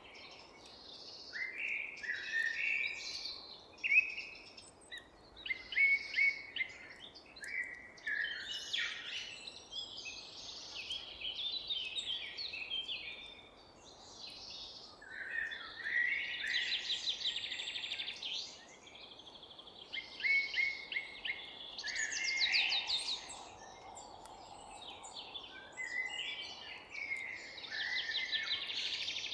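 Several forest songbirds singing and chirping at once, overlapping phrases of quick notes and rapid trills, over a faint steady background hiss.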